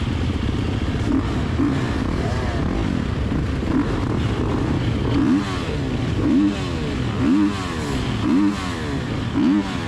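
Dirt-bike engines idling on a race start line. From about halfway through, a throttle is blipped roughly once a second, each blip a quick rise and fall in pitch.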